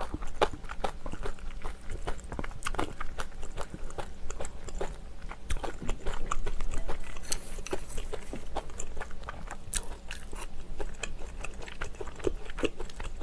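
Close-up eating sounds of a person chewing kimchi stew: irregular wet chewing and crunching with many small mouth clicks, and a louder stretch of noise about six seconds in.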